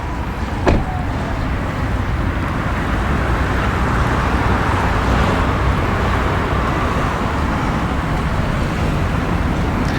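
Road traffic noise, with a vehicle passing that swells and fades around the middle. There is a single sharp click about a second in.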